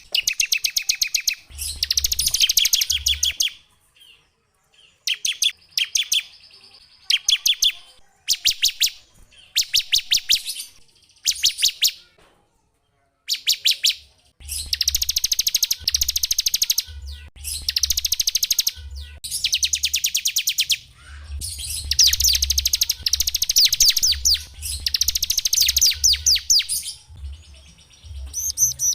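Small songbirds singing rapid trills of closely repeated high notes, in phrases of one to three seconds with short pauses between them. A low hum sits under the louder phrases.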